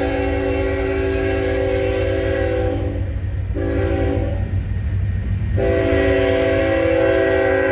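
Freight locomotive's multi-chime air horn sounding over the low rumble of a passing coal train: a long blast that breaks off about three seconds in, a brief short blast, then a second long blast starting near the end.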